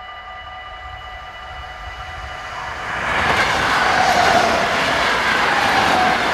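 An NS electric passenger train runs through a level crossing. The rumble and clatter of its wheels on the rails builds up about two and a half seconds in and stays loud for the last three seconds. Underneath, the crossing's warning bell rings steadily.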